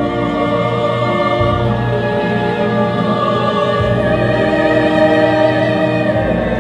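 A female classical singer holding long notes with vibrato over a full orchestra.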